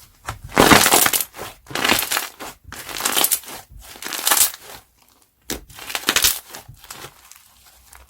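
Crunchy slime being squeezed and pressed by hand, crackling and popping in about five bursts with a short pause between the fourth and fifth.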